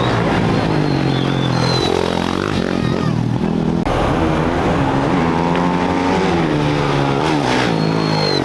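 Off-road racing motorcycle engines revving as bikes pull away from the start line, the pitch sweeping up and down several times as they accelerate and pass.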